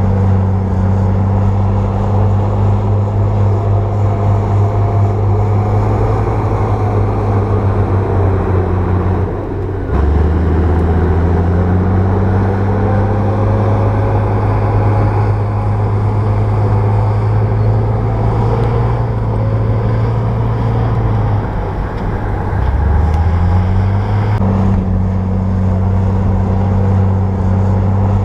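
Bulldozer's diesel engine running hard and steady, its pitch dropping sharply about ten seconds in and again about two-thirds of the way through, each time climbing back up as the engine recovers.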